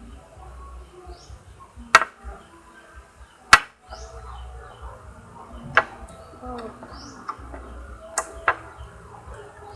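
A few sharp clicks or taps, the loudest about three and a half seconds in, over small birds chirping repeatedly in the background.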